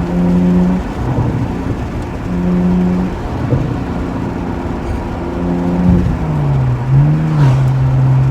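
BMW E92's N52 3.0-litre inline-six running with its muffler deleted, raised briefly three times and held, then dropping back and settling to a steady lower drone near the end.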